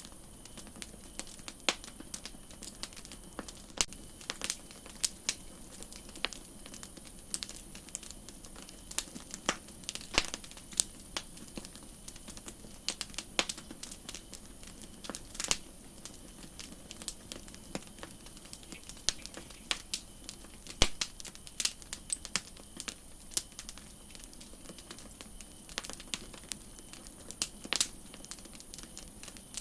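Campfire crackling, wood snapping and popping in irregular sharp pops of varying strength over a soft steady hiss. A high hiss grows louder about four seconds in and drops back about two-thirds of the way through.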